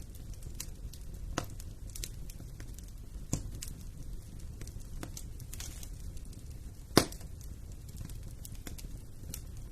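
Wood fire burning in a fireplace: a steady low rumble of flame with irregular crackles and pops, the loudest a sharp snap about seven seconds in.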